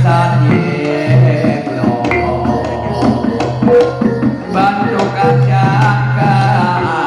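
Javanese gamelan music accompanying a jathilan dance: hand-drum (kendang) strokes over metallophone melody and sustained low notes, playing continuously.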